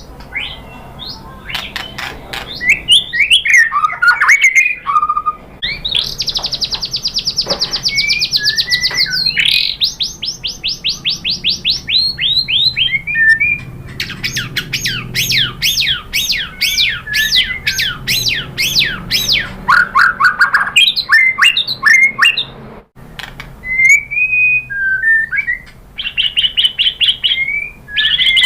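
White-rumped shama singing a long, varied song: clear whistles and chirps broken by rapid-fire runs of fast repeated notes, including a fast buzzy trill several seconds in and long strings of quick repeated notes in the middle.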